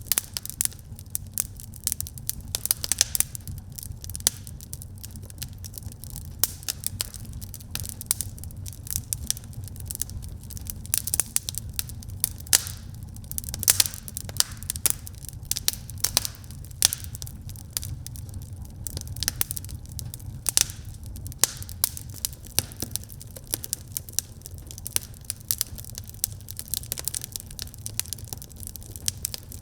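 Wood fire crackling in a fireplace: a steady low rumble of the burning with frequent sharp, irregular pops and snaps.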